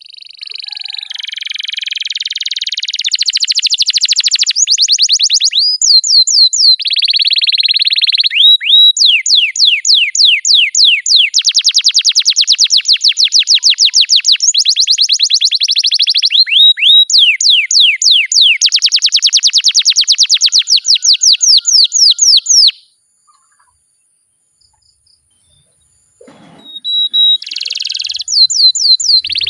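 Domestic canary singing a long, rolling song: rapid trills of fast repeated sweeping notes alternating with buzzy stretches. It stops for about three seconds near the end, then starts again.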